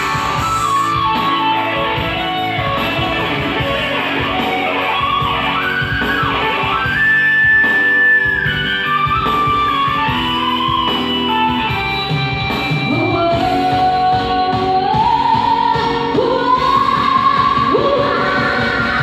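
A woman singing a slow melody with held notes over guitar accompaniment.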